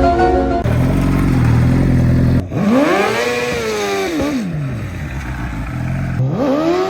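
Suzuki GSX-R 750 inline-four engine running steadily, then revved up and back down twice: a long rev a couple of seconds in and a shorter one near the end.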